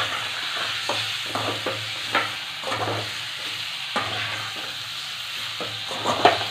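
Chicken pieces sizzling in hot oil in a metal kadai as they are stirred and sautéed with a spatula. Irregular scrapes and knocks of the spatula against the pan sound over a steady frying hiss.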